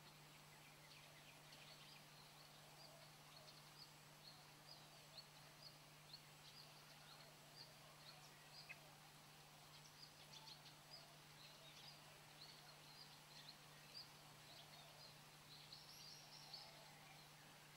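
Faint bird chirps: many short, high notes scattered irregularly throughout, over a steady low hum.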